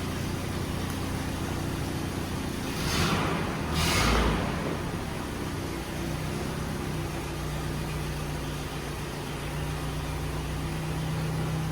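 A vehicle engine running steadily, with two brief whooshes about three and four seconds in.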